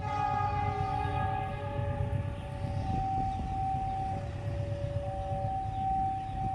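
Train running with a low rumble, under a warning sound that begins strongly and then alternates between a higher and a lower note about every second and a half.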